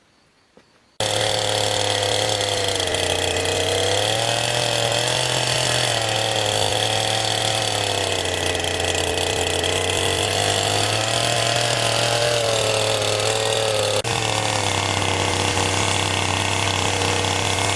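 A small engine running steadily, its speed wavering slightly up and down. It starts abruptly about a second in.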